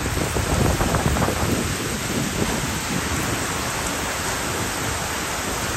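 Heavy tropical downpour, rain pouring steadily and densely, with a low rumble underneath that is strongest in the first couple of seconds.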